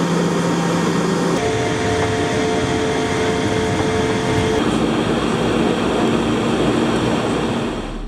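Steady vehicle running noise, a broad rushing sound with one steady hum under it; the hum's pitch jumps suddenly twice.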